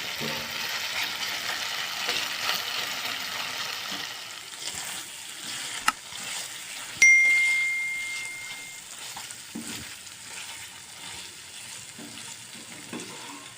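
Chicken sizzling in a frying pan, with a few soft knocks of stirring. About seven seconds in there is a single clear ringing ding that fades over about two seconds.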